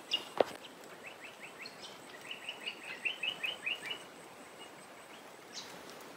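Bird calling in dry bushland: a run of short, quick, high chirps, densest about two to four seconds in, with one sharp click about half a second in.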